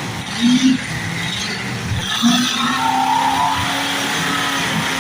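Demolition derby cars' engines running and revving hard, with two brief louder surges, about half a second in and just after two seconds in.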